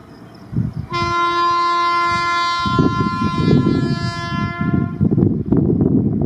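Indian Railways electric locomotive sounding its horn in one steady blast of about four seconds, starting about a second in. The rumble and irregular wheel clatter of the passing train come up partway through the horn and carry on after it stops.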